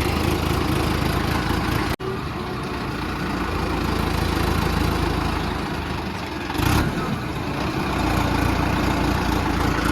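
Tractor engine running steadily, with a momentary break in the sound about two seconds in and a short, loud noisy burst near seven seconds.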